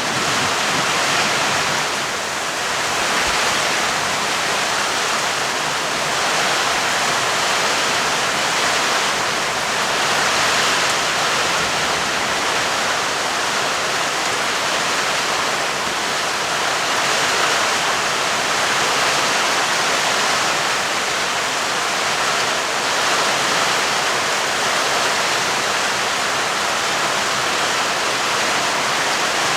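Heavy rain falling steadily: a dense, even hiss with no breaks and no thunder.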